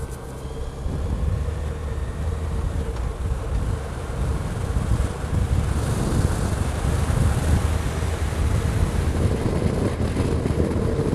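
Motorcycle underway, its engine a steady low rumble under wind buffeting the microphone, picking up about a second in.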